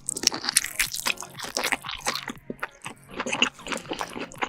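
Close-miked eating of lobster: many sharp crunches and cracks in quick succession as the shell and meat are bitten and chewed.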